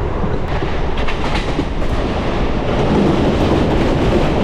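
Passenger train running along the track: a steady loud rumble and rattle with a few faint clicks.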